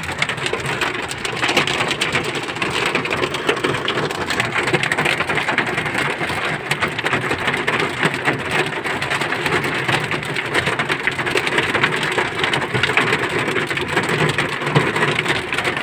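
Heavy rain falling, a steady dense hiss of drops striking a hard surface.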